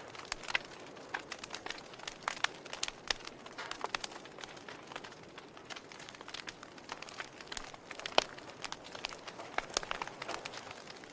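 Wood fire crackling: irregular sharp pops and snaps over a soft steady hiss, with one louder pop about eight seconds in.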